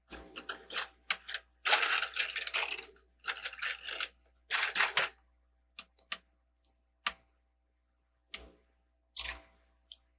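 Plastic Lego pieces clattering and clicking as they are handled: dense bursts of rattling over the first half, then a few single sharp clicks as bricks are fitted together.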